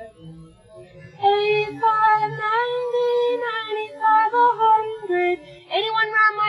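A woman's isolated singing voice, coming in about a second in with a sung melodic line of long, held notes that bend in pitch.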